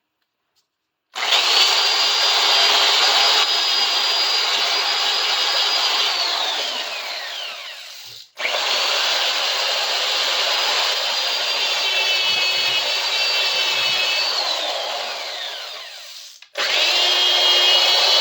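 Small electric power tool working the metal of a bar clamp, running with a high motor whine over a harsh rasping noise. It is switched off and its whine slides down as it coasts to a stop about 7 seconds in. It restarts right after, winds down again about 15 seconds in, and starts a third time near the end.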